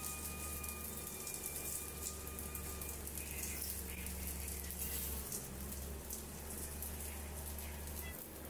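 Gyoza sizzling and crackling in hot oil in a nonstick frying pan, a steady spattering crackle over a low hum, with a few light clicks of metal tongs as the dumplings are turned.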